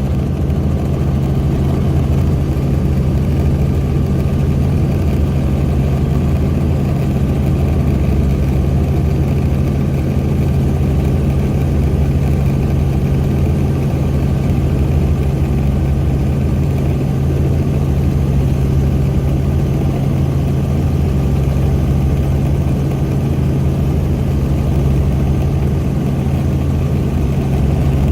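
Helicopter engine and rotor noise heard from inside the cabin in flight: a loud, steady drone with a strong low hum and several steady tones above it.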